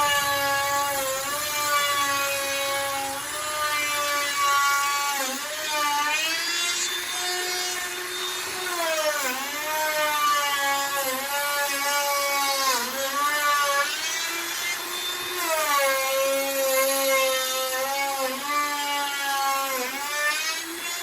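Handheld electric router cutting wood: a steady motor whine whose pitch sags and recovers again and again as the bit bites into the wood and is eased off.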